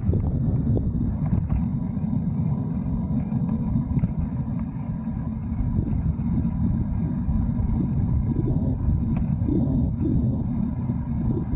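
Wind buffeting a camera microphone during a bicycle ride: a steady, loud low rumble.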